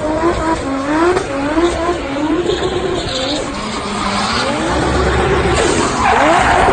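Toyota Supra Mk4's 2JZ inline-six revving hard in a drift, its pitch climbing and dropping back again and again, with tyres squealing and skidding; the tyre noise swells near the end.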